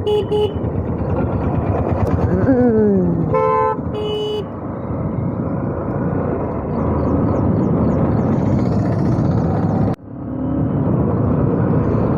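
Road and wind noise of a ride on a motorcycle, with traffic horns honking: a short toot at the start and two more toots about three and a half seconds in. The noise drops out sharply for a moment about ten seconds in.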